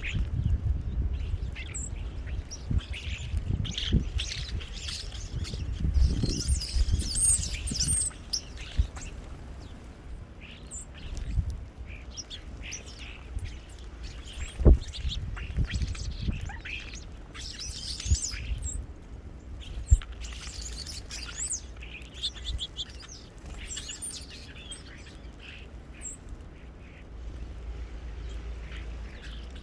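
Small birds chirping and calling at a feeder: many short, scattered chirps overlapping, over a low rumble with a few sharp thumps.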